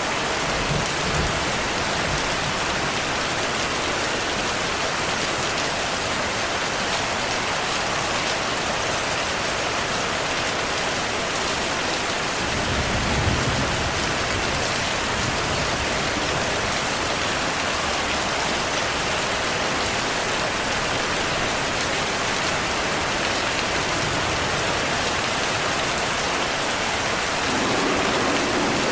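Steady rainfall with low thunder rumbles: one about a second in, a stronger one around the middle, and another near the end.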